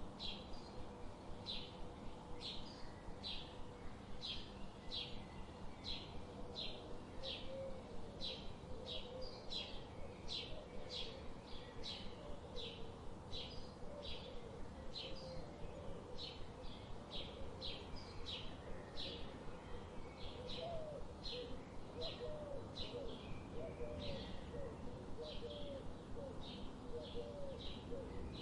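A songbird chirps steadily in short, evenly repeated high chirps, about two a second. Lower, bending cooing notes join underneath, more often in the second half, over a steady background hiss.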